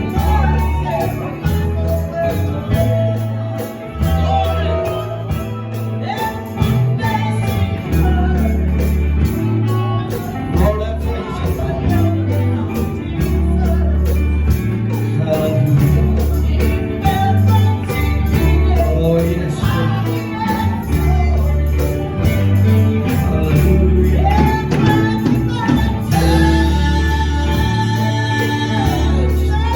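Live gospel music: a band with a heavy bass line and a shaken tambourine, with voices singing over it.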